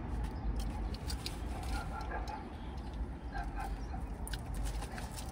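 Chewing and mouth noises while eating a chicken taco: scattered small sharp clicks over a steady low rumble.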